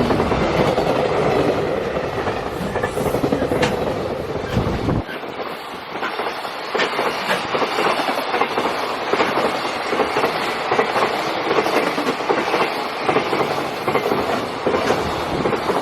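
Freight train passing through a station. Its deep rumble drops away about five seconds in, leaving the rhythmic clickety-clack of wagon wheels over the rail joints.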